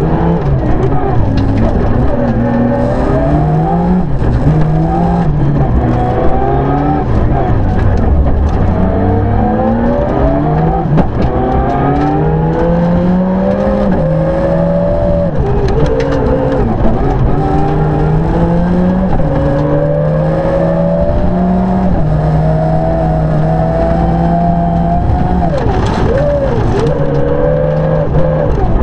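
Rally car engine at full throttle heard from inside the cockpit, revving up in repeated rising sweeps as it climbs through the gears, with lifts and downshifts between them and occasional sharp knocks from the road.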